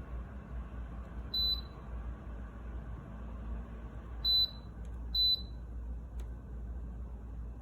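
Three short high electronic beeps from the Dreo tower space heater's button panel: one about a second in, then two close together about four seconds in. A steady low hiss runs under them.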